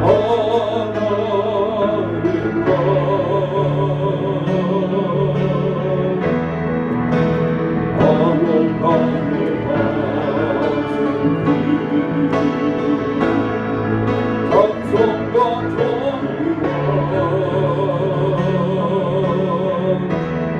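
A hymn being sung in a church service, voices with vibrato over sustained instrumental accompaniment.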